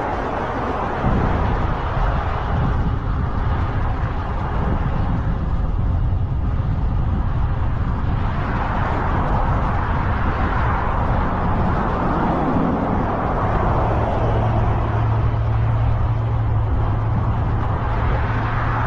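Wind rumbling on the microphone with road and traffic noise from a bike ride, steady throughout. A low steady hum comes in about three-quarters of the way through.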